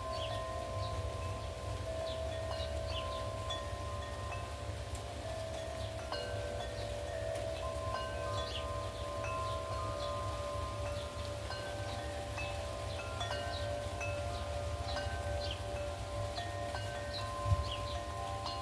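Wind chimes ringing in gusty wind, several long-ringing tones starting and overlapping, over a steady wind rumble on the microphone. A short sharp thump near the end.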